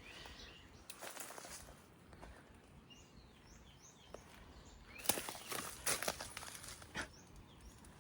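Footsteps crunching on dry ground and leaves, loudest about a second in and again between five and seven seconds in. A few faint, short, high chirps from a small bird in the middle.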